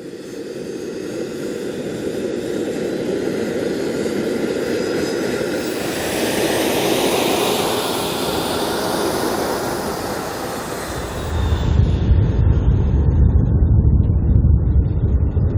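Jet fighter engines passing: a loud rushing jet noise builds with a whine at its height, and about two-thirds of the way in gives way abruptly to a deep low rumble.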